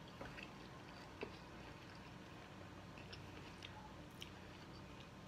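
Faint chewing with small wet mouth clicks.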